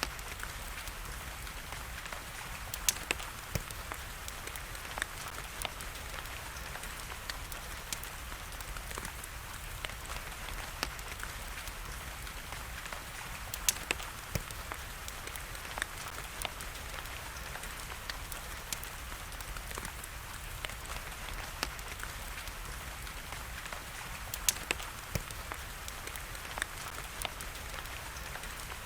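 Wood fire crackling, with irregular sharp pops, over a steady hiss of rain.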